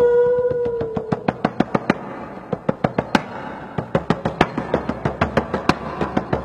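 A held, steady horn-like tone that sags in pitch and stops about a second in, followed by a quick, uneven run of sharp knocks or clicks, several a second.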